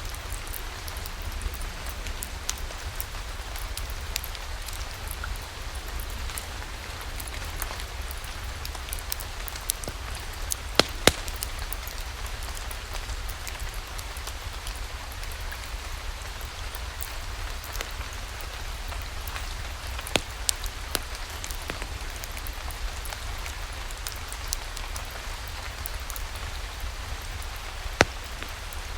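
Steady rain with a wood fire crackling in a fireplace: a low rumble under the hiss of the rain, and scattered sharp pops, the loudest a pair about eleven seconds in and one near the end.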